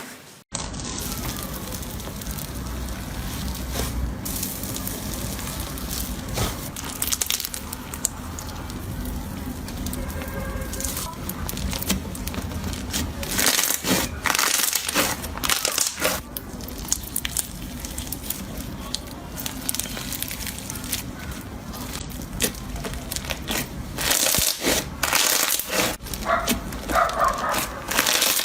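Slime being squeezed, poked and stretched by hand, with a continuous crackling and popping. The clicking grows louder around halfway through and again near the end.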